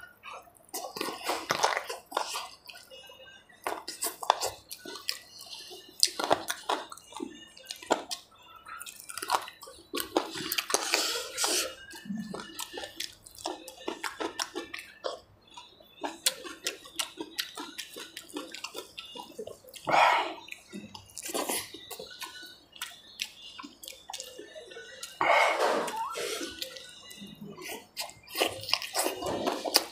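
Close-miked wet eating sounds of a man eating with his fingers: chewing, lip-smacking and slurping in many short wet clicks and squelches, with a few louder mouthfuls.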